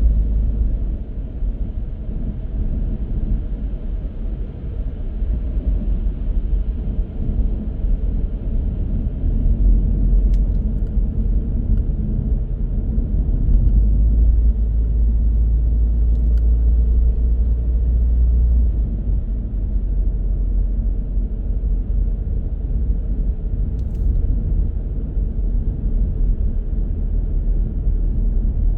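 A car's steady low rumble of road and engine noise while driving, heard from inside the car. It grows a little louder in the middle, with a few faint clicks.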